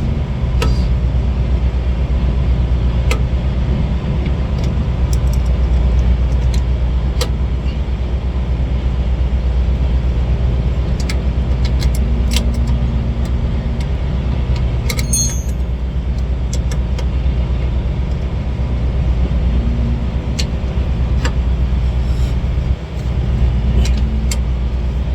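Semi-truck diesel engine idling steadily, with scattered light metallic clicks and a short burst of clinking about fifteen seconds in.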